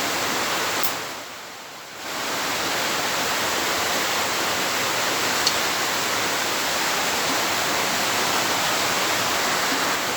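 Steady hiss of heavy rain, briefly dipping about a second in, with a single faint click about halfway through.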